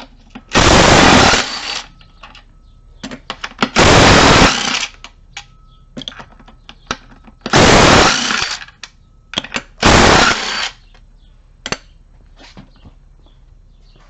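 Impact wrench running in four short bursts of about a second each, spinning out the NP229 transfer case's case bolts, with light clicks and clatter of tools and bolts between the bursts.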